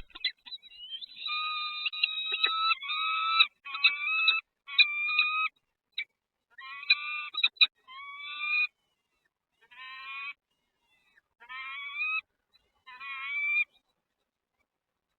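Nestling birds begging in the nest: about ten short bursts of shrill, wavering calls in quick succession, each under a second long.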